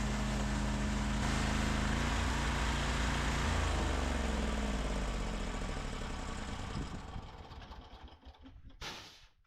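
A motor-driven machine running steadily, then switched off and coasting down. Its hum falls in pitch and fades over about four seconds until it stops, and a short scraping noise comes near the end.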